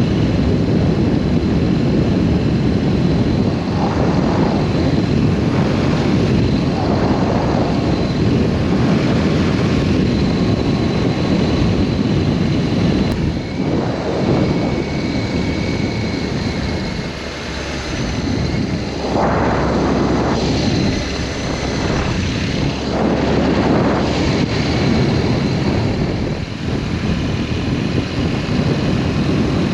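BMW R1200S boxer-twin engine running under way, buried in a loud, steady rush of wind noise that swells every few seconds.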